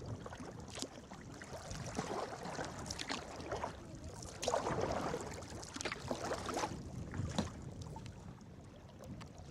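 Sea kayak being paddled through moving water: water splashes and rushes along the hull, swelling with each paddle stroke about every second or so.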